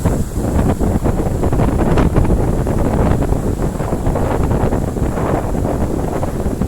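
Strong wind buffeting the microphone in gusts over the noise of sea waves.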